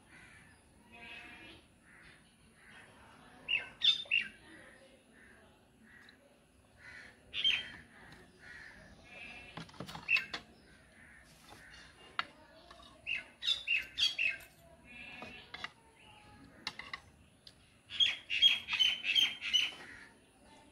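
Birds chirping and calling in short, scattered chirps, with a quick run of chirps near the end. A few sharp clicks sound around the middle.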